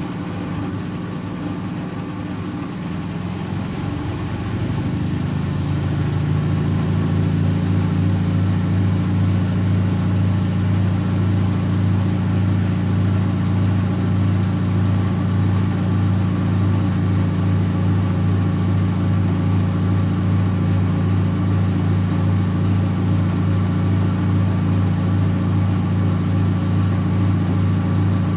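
Servis Automatic M3008B front-loading washing machine on its 800 rpm intermediate spin. The motor and drum hum climbs in pitch and loudness over the first six seconds or so as the drum comes up to speed, then holds a steady high-speed spin.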